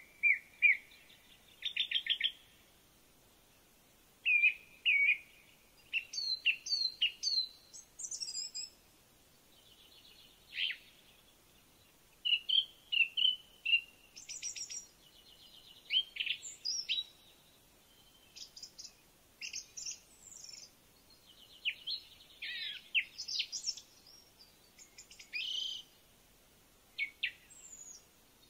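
Songbirds singing: a continuing string of varied, high-pitched chirps and quick runs of repeated notes, each phrase a second or two long with short pauses between.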